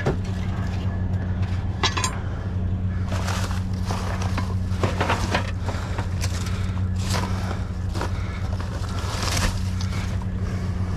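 Hands rummaging through scrap and debris in a dumpster, with irregular clanks, knocks and rattles of metal and junk being shifted. A steady low hum runs underneath.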